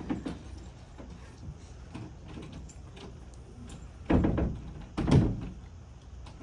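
A locked door being tried: the handle is worked and the door knocks against its frame without opening, with two heavy thumps about four and five seconds in.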